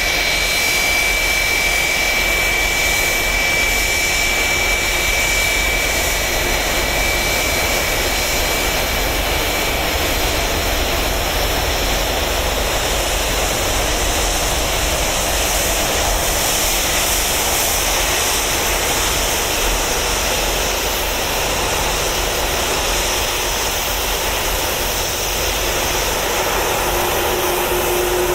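Boeing 757 jet engines running at idle: a steady loud rush with a high whine that fades out about a third of the way through, and a lower hum that comes in near the end.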